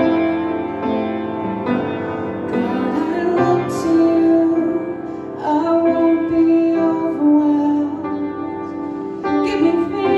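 A woman singing a slow song to piano accompaniment, holding long notes.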